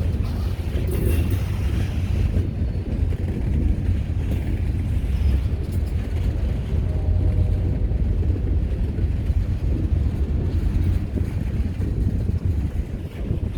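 Diesel-hauled train rolling past, a steady low rumble with wind buffeting the microphone.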